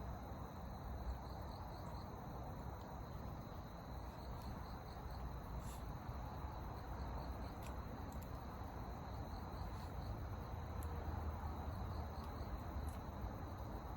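Crickets chirping steadily in a high, even trill over a low background rumble, with a few faint clicks scattered through.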